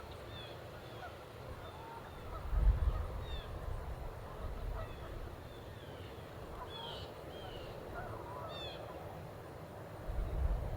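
Birds calling: a scatter of short chirps throughout, with a cluster of lower calls about two-thirds of the way through that fits waterfowl such as geese. Two bursts of low rumble, about two and a half seconds in and near the end, come over the calls.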